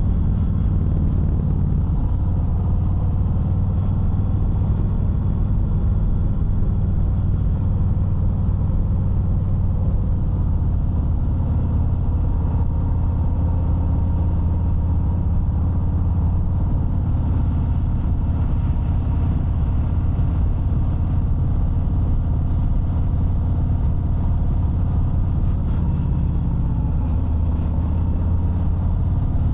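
Harley-Davidson Fat Bob 114's Milwaukee-Eight 114 V-twin running steadily, with its deep, even exhaust note holding a nearly constant pitch.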